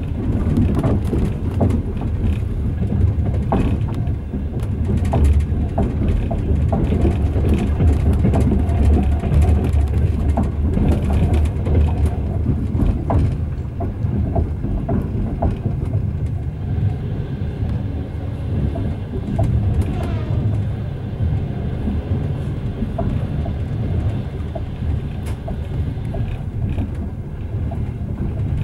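Passenger railway coach running along the track, heard from inside the carriage: a steady low rumble with frequent irregular clicks and knocks from the wheels and running gear.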